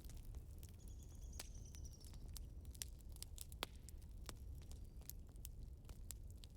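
Wood fire crackling, with frequent irregular sharp pops over a low steady rumble. A faint high whistle runs briefly from about a second in.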